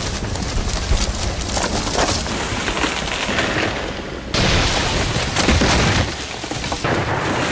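A giant rainforest tree cracking and splintering as it falls, with a heavy crash about four seconds in.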